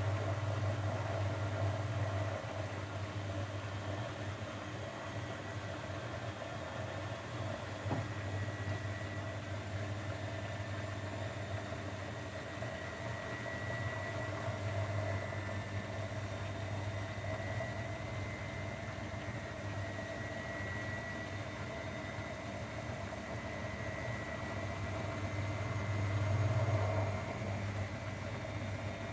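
Grundig washing machine running: a steady low motor hum with a faint high whine that drifts slightly upward through the middle.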